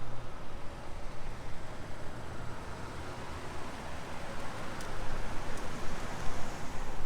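Road traffic noise: a steady low rumble and hiss that grows louder in the second half, with a couple of faint high ticks.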